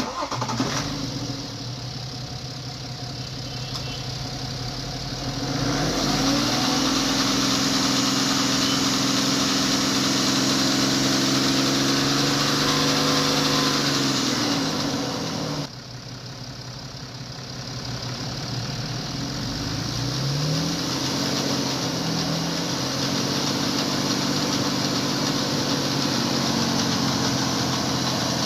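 BMW engine running and raised in revs twice, with the noise the owner presents as the timing chain. The pitch climbs about six seconds in and falls back near the middle, the sound drops suddenly, then the revs climb again from about two-thirds of the way through.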